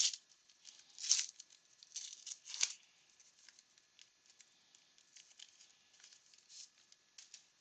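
Card pack wrapper being torn open and crinkled in a few sharp crackles over the first three seconds, the loudest about two and a half seconds in, then faint rustling as the cards are handled.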